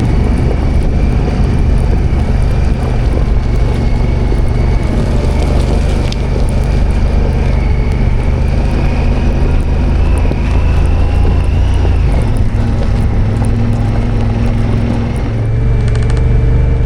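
A vehicle's engine runs steadily while driving, a low drone throughout. Its pitch eases up, then drops about twelve seconds in, and the sound swells briefly near the end.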